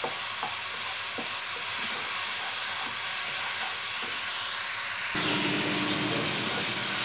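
A spiced tamarind and tomato paste sizzles in hot oil in a nonstick kadai while a wooden spatula stirs and scrapes it. About five seconds in, the sizzle turns suddenly a little louder.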